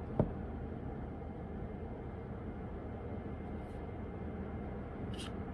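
Steady low background rumble with one sharp knock just after the start and a faint click near the end.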